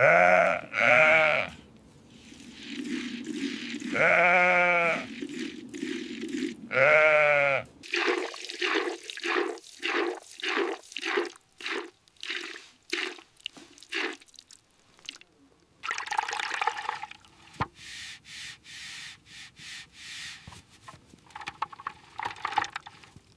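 Sheep bleating: three long, wavering bleats in the first eight seconds. They are followed by a regular run of soft pulses, about two a second, and then fainter scattered noises.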